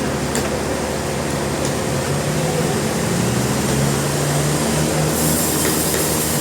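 Sawmill machinery running steadily: a low engine hum that wavers slightly in pitch, under a continuous loud noise.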